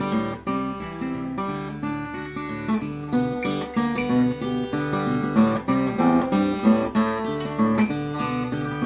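Acoustic guitar picked solo, a simple country-style melody over a few chords.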